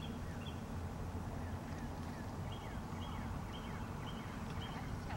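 Birds chirping in the background, one repeating a short high note about twice a second from about halfway in, over a steady low rumble.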